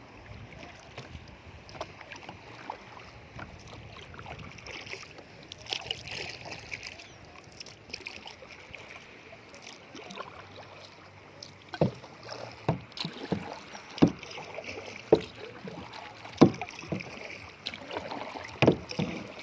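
Kayak paddle dipping and splashing in water. In the second half the strokes come about once a second.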